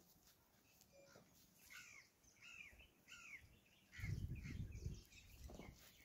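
Faint bird calls, a string of short arching chirps repeated several times, followed about four seconds in by a brief low rumble.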